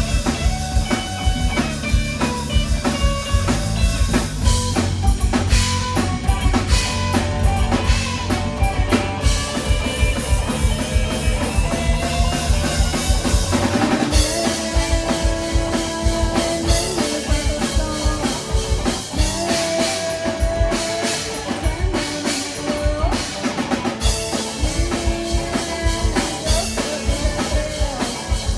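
Live band playing a rock song, the drum kit driving it with steady kick, snare and rimshot hits. About halfway through the texture changes and long held notes ring out over the drums.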